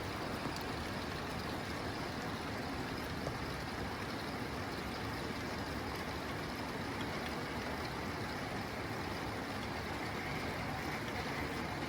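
Rain falling on a tin roof, a steady, even hiss of drops with no single sound standing out.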